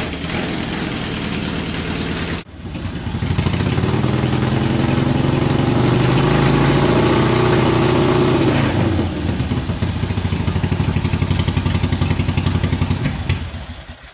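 1968 Harley-Davidson Ironhead Sportster's 883 cc V-twin running just after a kick start. After a brief break about two and a half seconds in, it is revved up and held for a few seconds, then drops back to an uneven, lumpy idle, and cuts off near the end.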